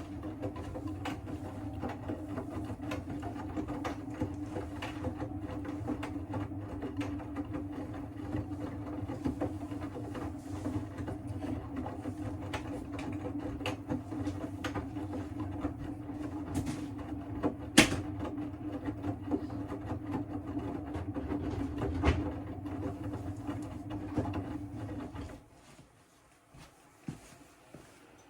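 Siemens WM14T490 washing machine drum turning in the wash cycle: a steady motor hum with low rumbling and scattered clicks and knocks, one sharp knock about two-thirds of the way through. It stops about 25 seconds in, a pause in the drum's turning. The rumbling comes from a damaged drum bearing.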